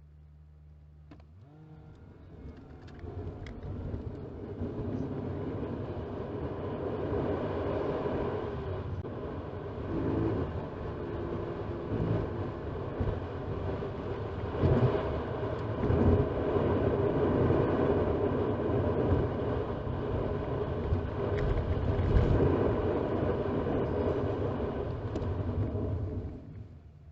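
2018 Toyota RAV4 driving, as heard inside the cabin through the dashcam's microphone: engine and road noise that builds as the car pulls away a second or two in, then runs on until it cuts off just before the end.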